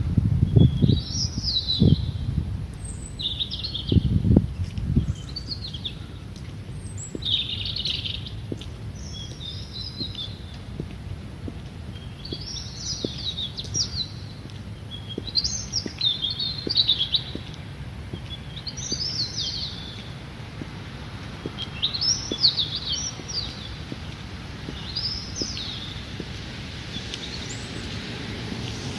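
A songbird singing short, repeated chirping phrases, one every one to three seconds, over a steady low city rumble. A few low thumps sound in the first five seconds.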